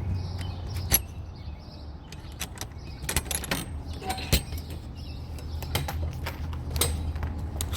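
A vehicle engine idling with a steady low hum, with several sharp knocks and clinks of metal being handled over it.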